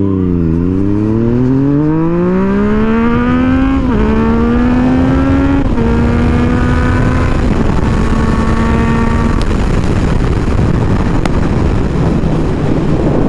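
Motorcycle engine accelerating through the gears, its pitch rising with upshifts about four and six seconds in. It then holds a steady note that fades under wind rush over the last few seconds.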